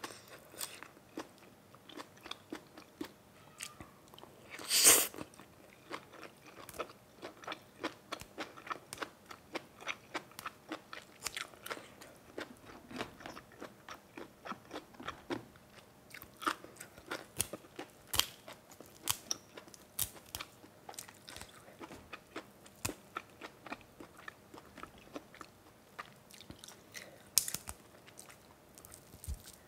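Close-up eating sounds: a person chewing and crunching food, with many short wet mouth clicks and one much louder crunch about five seconds in.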